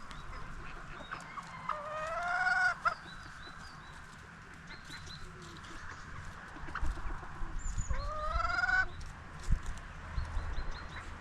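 Free-range chickens clucking, with a rooster crowing twice, each crow about a second long and rising slightly in pitch.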